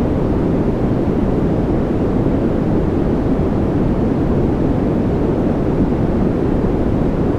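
A steady, unbroken rushing noise, deep rather than hissy, with no separate drops, rhythm or changes: a continuous noise track of the kind played for sleep.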